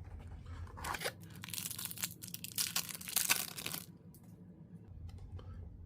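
Foil wrapper of a hockey card pack being torn open and crinkled, a dense crackle with sharp clicks for a few seconds.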